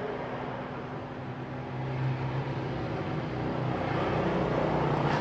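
Steady mechanical hum with a hiss, growing a little louder about two seconds in.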